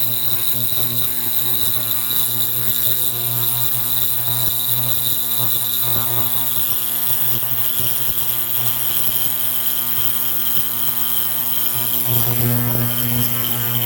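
Steady electrical buzzing hum with a high hiss from the running ultrasonic transducer rig; the high band drops a little in pitch about halfway through, and the low hum swells near the end.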